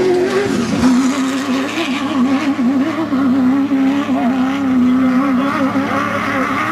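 Off-road race buggy engine running at steady revs that waver up and down. The pitch drops about a second in, then hovers unevenly.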